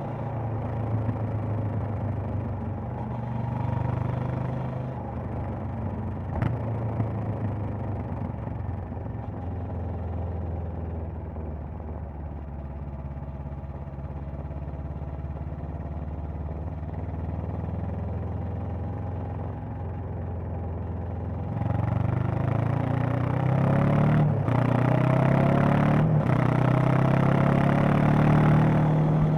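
Honda CB500X's parallel-twin engine and exhaust under way: a steady engine note that drops lower and quieter through the middle. About two-thirds of the way in the throttle opens and the revs climb, broken twice by brief gaps like upshifts.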